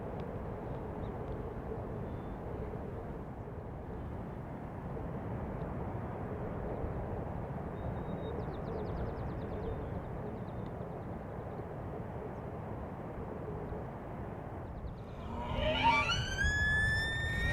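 Steady outdoor background rush, then near the end a Tule elk bull bugling: a loud call that glides up into a high, held whistle.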